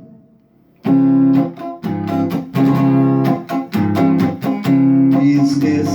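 Guitar strummed in chords, starting abruptly about a second in after a brief fade to quiet: the instrumental intro to the next song.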